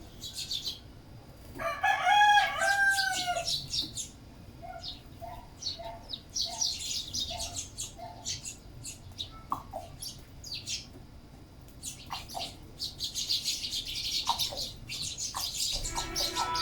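A flock of sparrows chirping busily while feeding. A rooster crows once about two seconds in, the loudest sound here, and a string of short, lower clucking notes follows a few seconds later.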